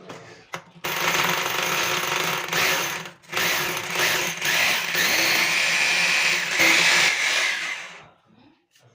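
Electric power tool running hard in two stretches: it starts about a second in, stops briefly near three seconds, then runs again until about eight seconds.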